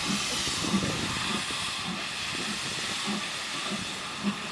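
Steam locomotive hissing steadily as it lets off steam, with a soft low beat recurring about one and a half times a second.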